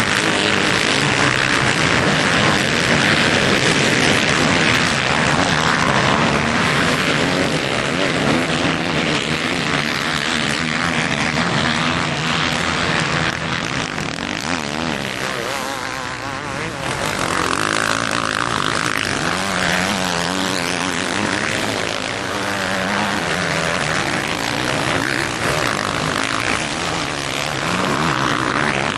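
Motocross bikes racing, their engines revving up and down in pitch without a break, easing off slightly about halfway through before rising again.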